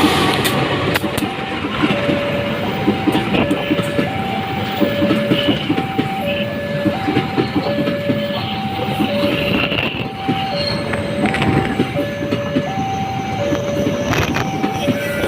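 A diesel locomotive and its train rolling past, with a dense engine rumble and wheel clatter. A two-tone electronic level-crossing alarm alternates steadily between a higher and a lower note, each note lasting about 0.7 s.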